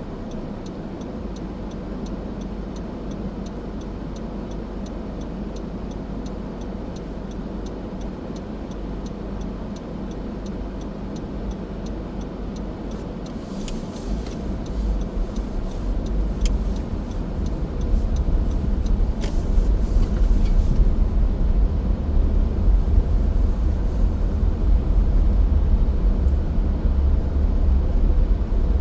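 A car driving, its road and engine noise steady, with a light ticking about twice a second through the first half. About halfway in a deep rumble grows and stays loud, with a few sharp clicks in the middle.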